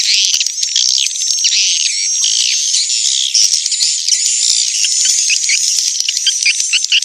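Swiftlet lure sound: many edible-nest swiftlets chirping and twittering at once in a dense, high-pitched chatter of overlapping calls. It is the kind of call track played to attract swiftlets into a nesting house.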